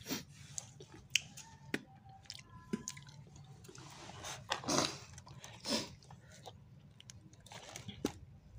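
A person chewing a mouthful of grilled fish and rice close to the microphone, with irregular wet mouth clicks and smacks.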